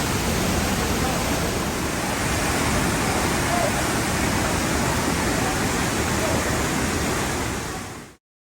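Waterfall pouring with a loud, steady rush of falling water, which fades out quickly and cuts to silence about eight seconds in.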